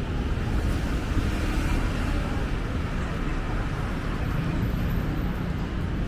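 Steady city road traffic noise: a continuous low rumble of passing vehicles.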